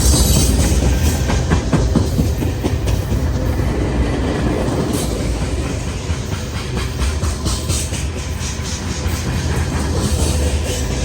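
Train rolling past: a steady low rumble with rapid clicking of wheels over rail joints.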